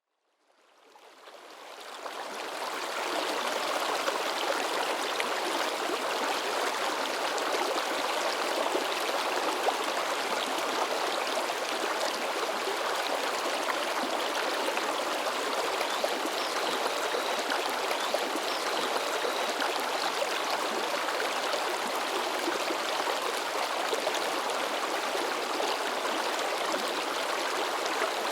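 River water babbling and splashing over rocks in a steady, dense rush. It fades in from silence over the first few seconds and then holds even.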